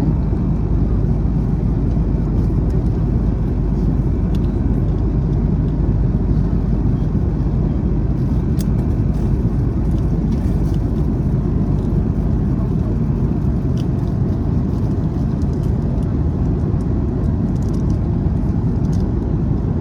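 Steady low rumble of travel noise heard from inside a moving vehicle, even in level throughout, with a few faint clicks.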